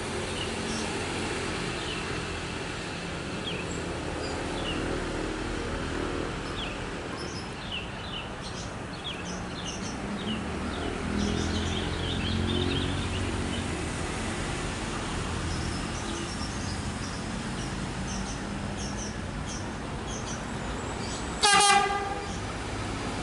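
Train running by with a steady rumble and a low engine drone. Near the end comes one short, loud toot.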